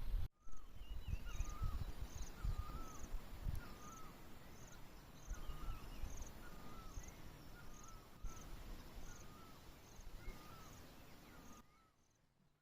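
Outdoor natural ambience: a small animal gives a short, pitch-bending call over and over, about once a second, over a row of faint, high, evenly spaced chirps and a low rumble. The sound cuts off abruptly near the end.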